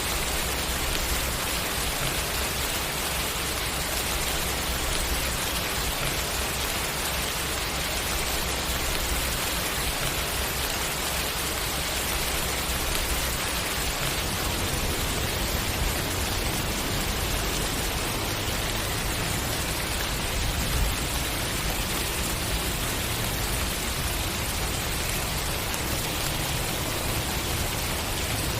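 Steady rain falling, an even hiss of drops on a surface, with a low rumble underneath.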